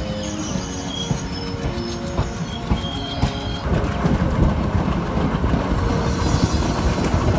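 Background music over a low rumble for the first few seconds. From about three and a half seconds in, a passenger train is heard running from on board: the wheels rumble and clatter on the rails, with wind noise and a few sharp clicks near the end.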